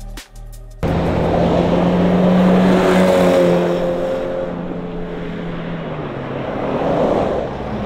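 Acura Integra DC2 with a swapped-in Honda K20A inline-four driving away, its engine holding one steady note that starts abruptly about a second in, peaks, then fades as the car moves off. Road and tyre noise rises again near the end.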